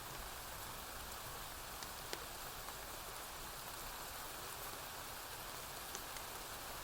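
Steady rain falling on a porch roof, with a few sharp ticks scattered through it.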